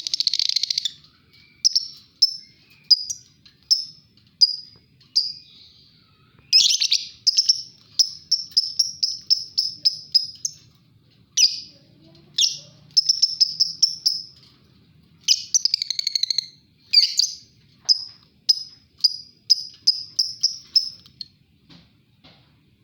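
Lovebirds calling: a brief burst of harsh chattering at the start, then sharp, high-pitched chirps in quick runs of about three a second, with short pauses between the runs.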